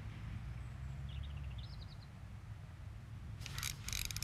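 Quiet outdoor ambience with a steady low rumble of wind on the microphone; a small bird gives a short warbling call about a second in, and a quick run of sharp clicks comes near the end.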